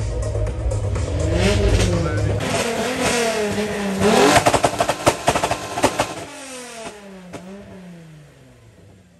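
Modified car engine revved several times, the pitch climbing and falling, with a rapid run of sharp exhaust pops and crackles about four seconds in; the revs then drop away and the sound dies down.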